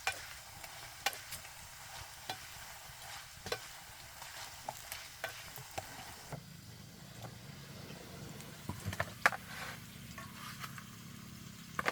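Food frying in hot oil with a steady sizzle, while a utensil stirs it with scattered sharp clicks.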